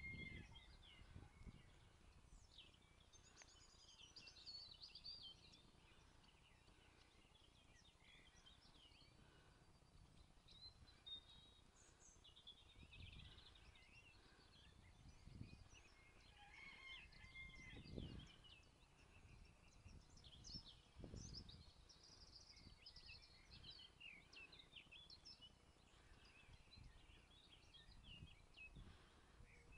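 Faint birdsong: small birds chirping and trilling on and off, with a few brief low rumbles of wind or handling on the microphone.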